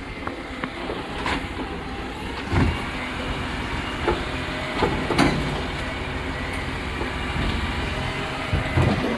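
Rubbish truck's engine running steadily, with several clunks and knocks over it.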